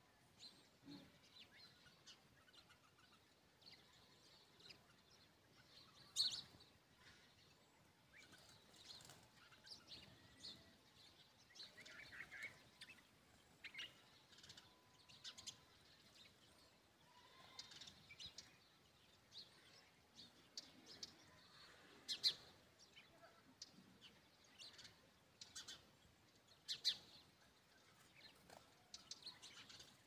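Small birds chirping faintly in the background: scattered short, high chirps throughout, with a few sharper, louder ones standing out.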